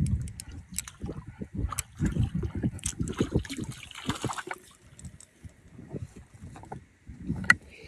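Strong wind buffeting the microphone in uneven gusts, easing off for a couple of seconds past the middle, with scattered sharp clicks and knocks.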